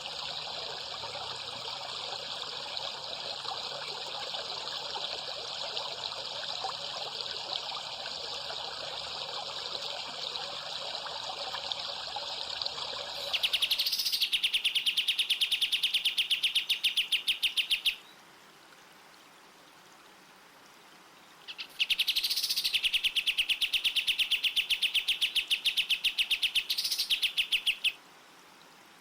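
A steady rushing, trickling noise like running water for the first half. Then a bird sings a fast, even, mechanical-sounding trill in two long runs of several seconds each, with a silent pause between and after them.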